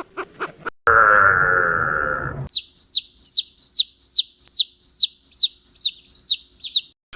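A loud, drawn-out farm-animal call lasting about a second and a half, then a chick peeping: about a dozen short, high, falling cheeps, two to three a second.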